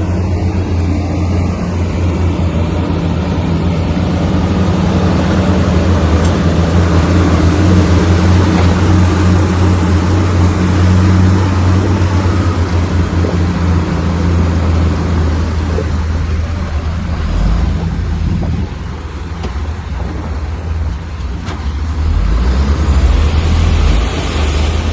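Bulldozer's heavy diesel engine running hard under load, a steady deep drone. About three-quarters of the way through it drops lower and eases off, then picks up again near the end with more clatter.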